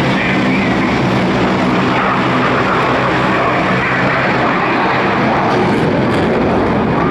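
Propeller airplane's engine running loud and steady, a continuous drone with a low hum under it.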